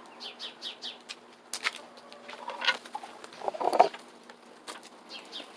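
Chickens clucking and chirping in short falling calls, with rustling and knocking, and one louder sound about three and a half seconds in.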